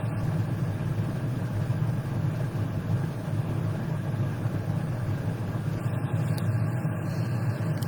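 Steady low mechanical hum with no breaks or changes.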